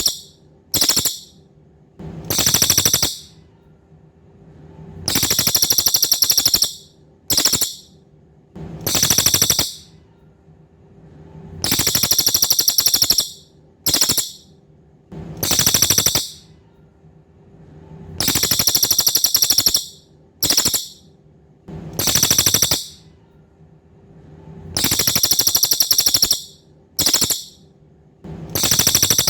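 Cililin bird song: loud, high, buzzy rattling trills in a fixed cycle of a long trill, a short burst and another trill, repeating about every six and a half seconds as in a looped training recording. A faint steady hum runs underneath.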